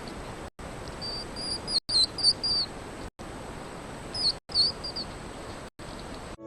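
Short, high-pitched animal chirps in two quick clusters, one about a second in and one about four seconds in, over a steady hiss that drops out briefly every second or so.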